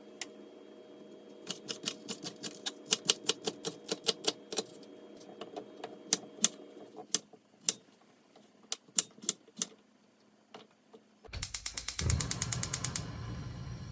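Sharp taps and clicks of kitchen work, in a quick run and then more sparsely. Near the end comes a short, dense rattle over a low rumble.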